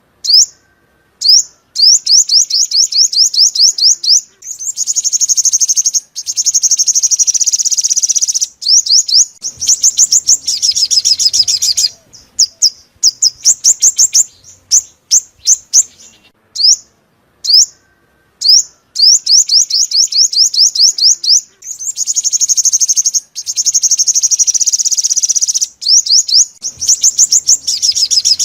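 Sunbird song, from the purple-throated, yellow-bellied 'five-colour' sunbird: runs of rapid, high, flicking chirps and fast trills lasting a few seconds each, broken by short single notes and brief gaps. It is a lure song for speaker traps, and the same sequence seems to come round again about every 16 seconds.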